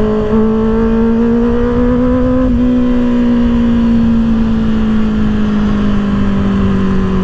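Inline-four engine of a 2024 Kawasaki ZX-6R with an M4 aftermarket exhaust, held at steady high revs under way. The pitch climbs slightly for about two and a half seconds, then slowly drops as the throttle eases, over low wind rush.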